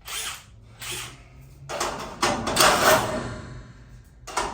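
Metal rattling and scraping from working the garage door's reinforcement struts and hardware: a few short scrapes, then a longer, louder rattle about two seconds in.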